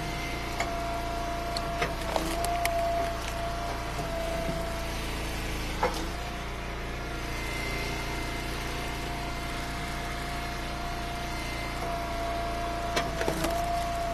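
Engine of a hydraulic wood splitter running steadily, with a held whine, while firewood rounds are split; sharp knocks of splitting or dropping wood come about two seconds in, about six seconds in, and near the end.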